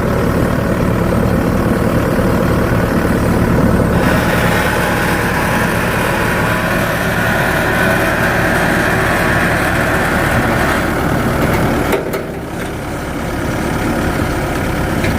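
An engine running steadily at a low, even speed. Its sound grows brighter about four seconds in and dips briefly near the end.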